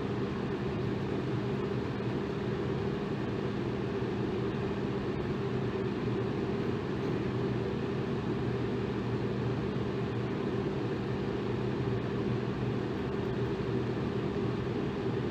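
Electric fan running steadily: an even whoosh of moving air over a low motor hum, unchanging throughout.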